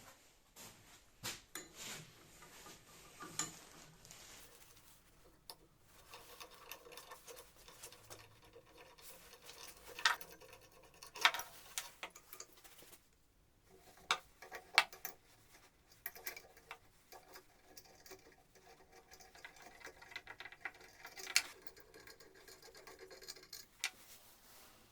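Hand work on wood lathe parts: scattered small clicks, taps and scraping, with a few sharper knocks.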